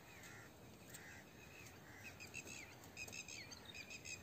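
Faint chirping of small birds: short, high calls with quick falling notes, repeated more and more often from about halfway through.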